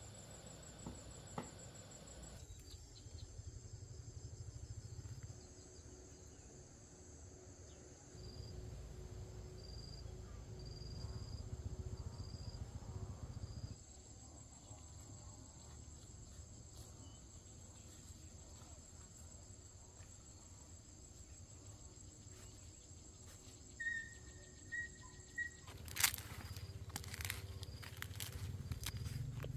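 Insects buzzing with a steady high-pitched tone over a faint low rumble, with a few short chirps and a sharp click near the end.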